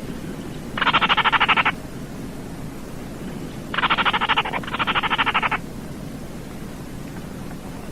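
Baillon's crake giving its dry, frog-like rattling call: three rattles of about a second each, each a fast run of about ten clicks a second. The first comes about a second in, and the other two follow back to back midway. A steady low hiss runs under them.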